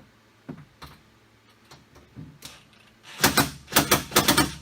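Cordless impact driver tightening the door handle's mounting nuts in three short bursts of rapid hammering near the end, after a few light clicks of handling.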